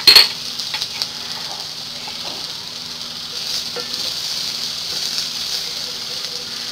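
Onions, garlic and ground spices sizzling in hot oil in a steel wok while being stirred with a wooden spatula. A loud knock of the spatula on the pan comes right at the start, then a few light clicks and scrapes over a steady sizzle.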